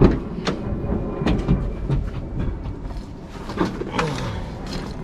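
Tools and equipment being handled: several sharp knocks and clanks over a steady low rumble.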